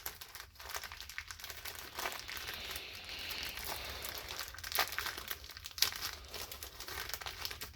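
Plastic bag of transmission rebuild-kit seals and O-rings being opened and handled, crinkling steadily, with a few sharper crackles near the middle.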